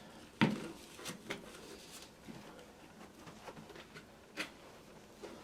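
Quiet handling noises: one sharp knock about half a second in, then a few faint clicks and taps.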